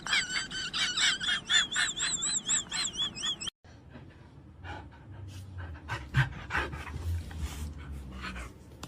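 A dog panting fast, about four breaths a second, with a high wavering tone over it. It cuts off suddenly about three and a half seconds in, leaving faint scattered clicks and a low hum.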